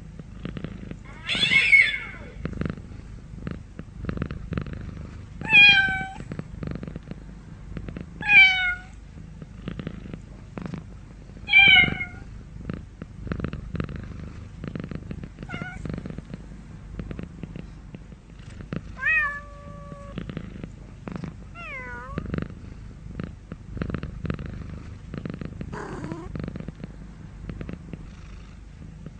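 Domestic cat purring steadily, with about eight meows a few seconds apart; the first four meows are the loudest and the later ones softer.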